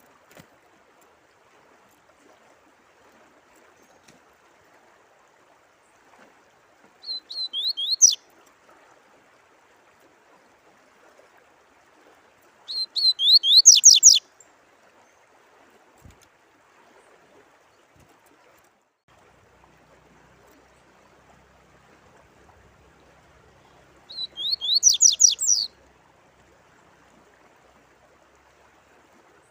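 A songbird singing three short phrases of quick, repeated rising notes, each about a second or so long, over a faint steady trickle of water.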